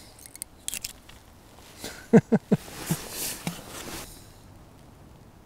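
Close handling noises: a few light clicks, then three sharp knocks in quick succession about two seconds in, followed by a short rustle.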